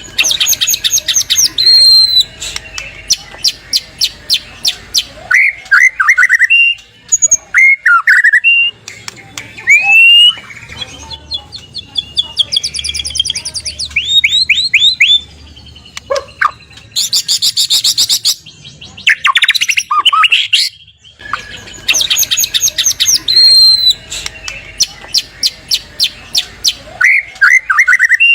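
White-rumped shama (murai batu) singing loudly in a varied, mimicking song: fast runs of sharp repeated notes, rising and falling whistles and trills, broken by short pauses.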